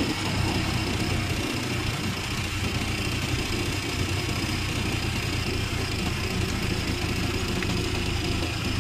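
Engine of a motorcycle-sidecar tricycle running steadily while riding, with road noise, heard from inside the sidecar.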